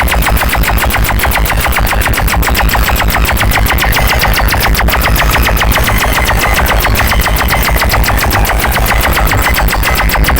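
A DJ sound system playing a rapid, even string of heavy bass hits, about ten a second, like a machine gun, at very high volume.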